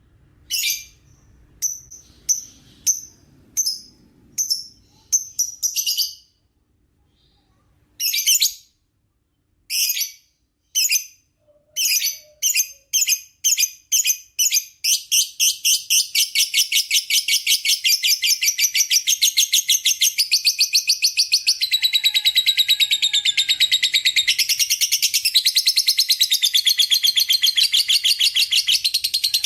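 Lovebird ngekek: short, shrill chirps, spaced at first, then after a brief pause coming faster and faster until about halfway through they run together into one long, unbroken rapid chattering trill.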